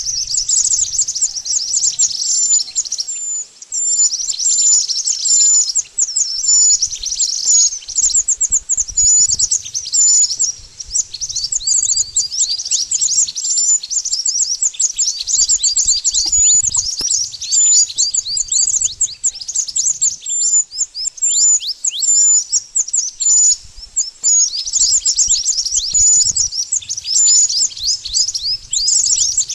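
Mantenan bird song: a continuous, rapid chatter of high-pitched chirps and quick downward-sweeping notes, with hardly a pause.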